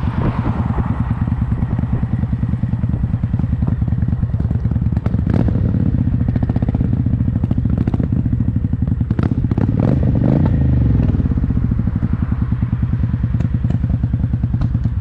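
Motorcycle engine running with a steady, rapid firing beat, with a brief rise and fall in pitch about ten seconds in.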